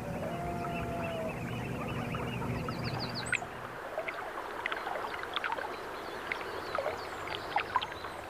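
Wetland birds calling at dawn, with many short chirps and whistles and a quick series of rising notes about three seconds in. Under them runs a low steady hum that stops about four seconds in.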